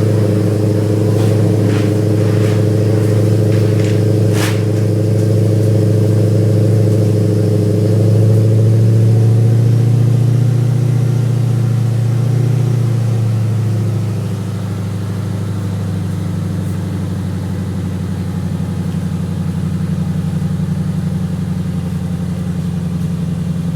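Infiniti FX50 S's V8 idling through a newly installed aftermarket muffler, a steady low drone. The engine note rises a little about eight seconds in, then drops back around fourteen seconds and settles lower and quieter. A few faint clicks sound in the first few seconds, the sharpest about four seconds in.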